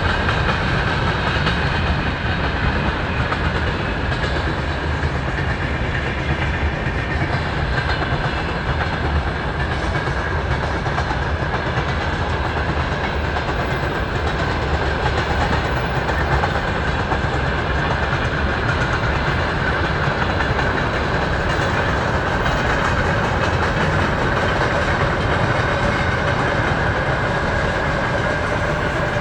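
Train wheels running over the rails: a steady rumble with the clatter of the wheels on the track.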